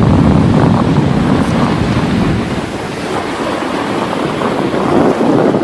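Wind buffeting the microphone: a loud, steady, low rumbling rush, easing a little midway.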